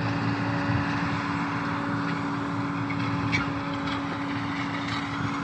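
An engine running steadily: a constant hum with one held tone and no change in speed.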